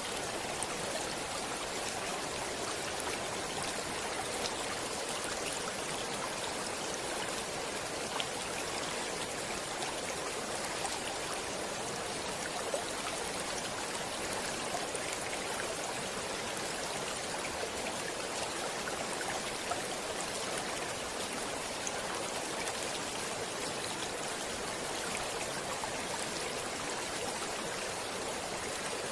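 Stream water flowing steadily, an even rushing hiss with small splashes and drips scattered through it.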